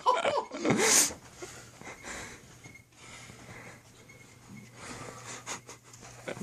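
Laughter trailing off into breathy, wheezing breaths in the first second, then a quiet small room with faint scattered rustling and a low steady hum.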